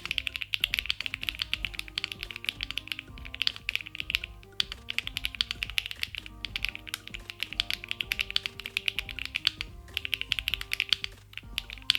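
Fast typing on a custom mechanical keyboard with HMX Perky switches: a dense run of keystroke clacks, broken by a few brief pauses, over background music.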